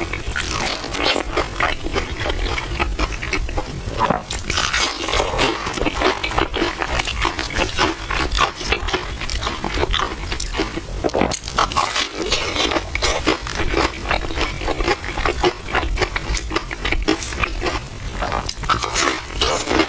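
Close-miked eating of milk tea with chewy purple rice: wet chewing and slurping mouth sounds, with a spoon stirring and scraping the bowl, as a dense run of irregular clicks throughout.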